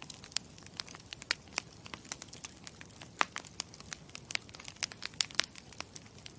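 Campfire crackling: a steady low rush under frequent, irregular sharp pops and snaps of burning wood.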